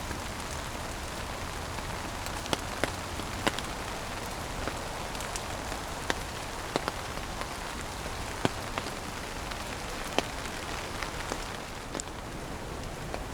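Steady rain falling, a continuous hiss with sharp, louder drops landing close by every second or two.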